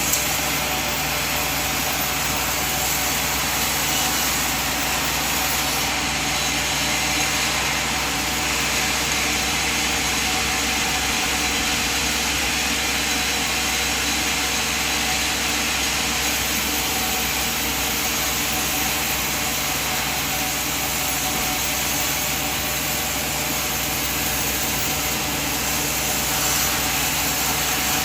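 Sawmill machine running steadily, an even drone with several steady tones and no change in load.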